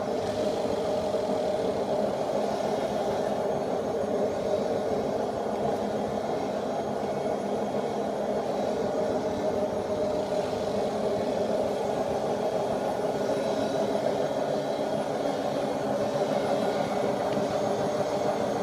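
Bosch Classixx WAA20280 washing machine running with a steady, even drone; its drum bearings are damaged.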